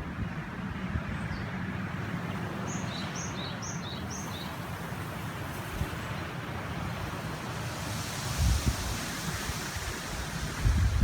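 Mountain river rushing steadily, with wind gusting on the microphone now and then. A small bird gives a quick run of about five short, high chirps a few seconds in.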